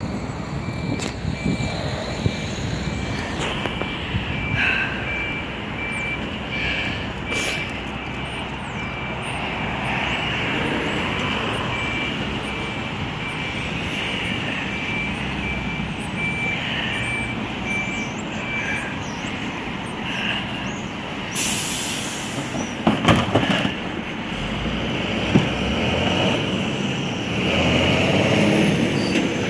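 Refuse collection truck running, with its reversing alarm beeping steadily for about the first twenty seconds. Later comes a short hiss, then a few loud knocks and clatters.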